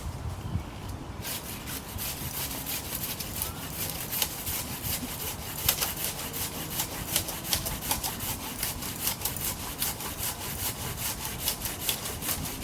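Hand saw cutting through branches and small trees with quick, rhythmic back-and-forth strokes, starting about a second in.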